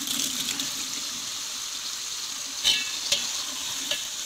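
Chopped tomatoes sizzling steadily as they fry in hot oil with onions in a large metal pot. A metal ladle clinks sharply against the pot three times in the second half.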